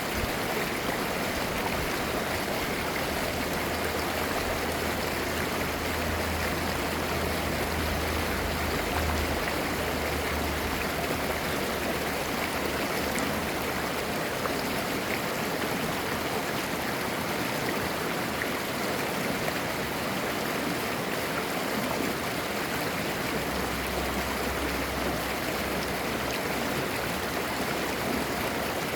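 Clear valley stream flowing and babbling steadily.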